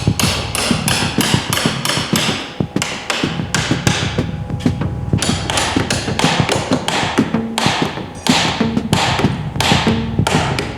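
Hammer blows on the wooden parts of a danjiri festival cart being knocked apart, an irregular run of sharp strikes a few times a second.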